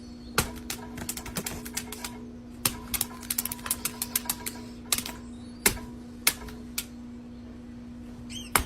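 Irregular sharp clicks and taps, some in quick clusters of several a second, over a steady hum.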